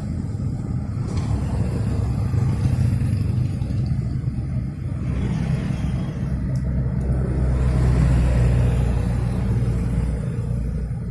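Engine running steadily, a low rumble that holds at one speed throughout.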